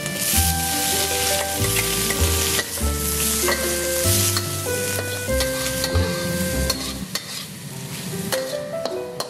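Diced sausage hitting a hot wok of scrambled egg and being stirred through with a metal spatula: oil sizzling, with the spatula scraping and clicking against the pan. The sizzle eases off near the end.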